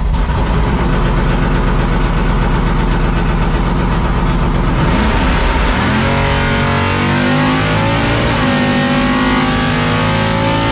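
C10 drag truck's engine running loud, with the revs rising about five seconds in, then a changed, steadier engine note as the test pass goes on.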